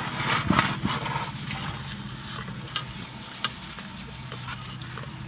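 Close-up chewing of a cheesy pepperoni pizza slice: small wet mouth clicks and smacks, scattered and irregular, over a steady low hum inside the car.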